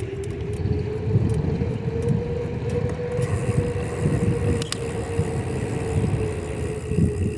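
Wind rushing over the microphone and tyres rolling on pavement as a bicycle is ridden fast, with a steady hum underneath. A single sharp click sounds a little past halfway.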